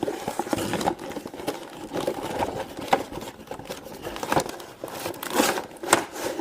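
A toy box being opened and its contents unpacked by hand: irregular rustling and crinkling of cardboard and plastic wrapping, with small clicks and knocks.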